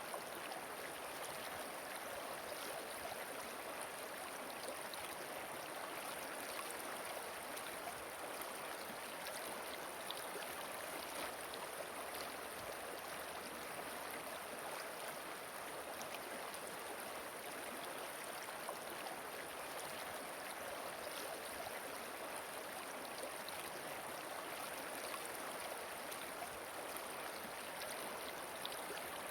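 A river flowing gently: a steady, even rush of moving water with no pauses or changes.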